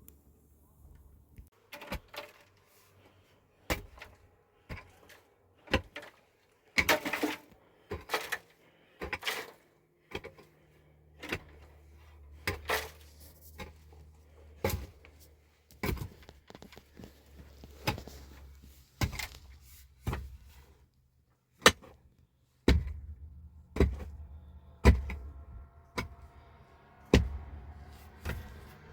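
Repeated sharp knocks or thuds, irregular, about one every one to two seconds. A low steady hum sits behind them through the second half.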